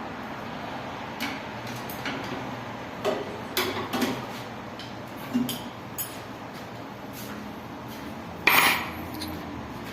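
Metal clinks and knocks of an Allen key and fittings: several sharp taps spread over the seconds, then a louder short rattling clatter near the end, as the blower and fan blade are fitted and tightened on a window AC's fan motor.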